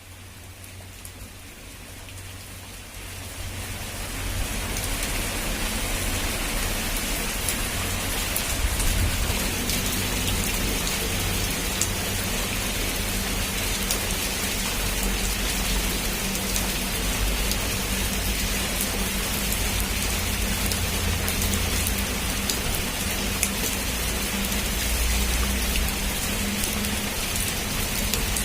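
Heavy rain pouring steadily, fading in over the first few seconds, with a low rumble of distant thunder beneath it that swells about nine seconds in and again near the end.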